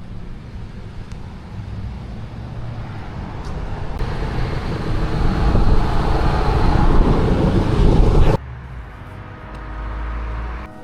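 Road traffic: a vehicle's noise swells for several seconds as it comes closer, then cuts off suddenly about eight seconds in, followed by a quieter low hum.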